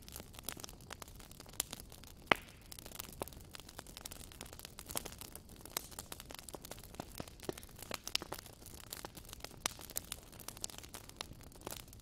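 Wood campfire crackling: irregular small pops and snaps from the burning logs over a soft hiss, with one sharper pop a little over two seconds in.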